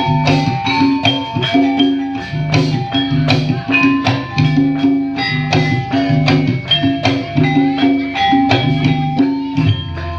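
Traditional Javanese ebeg accompaniment music: rapid struck notes on tuned percussion ringing over a steady, repeating drum pulse.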